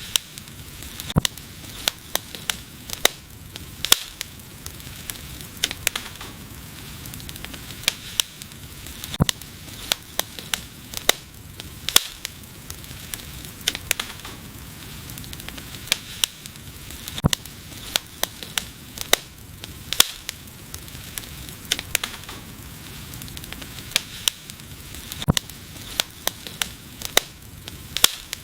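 Wood fire burning: a soft steady hiss with frequent sharp crackles and pops at irregular intervals.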